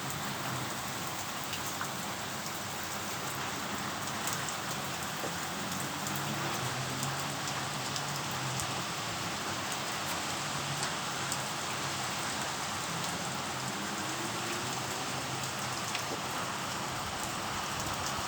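Steady rain falling, with many small drops ticking on surfaces. A faint low hum comes and goes in the middle.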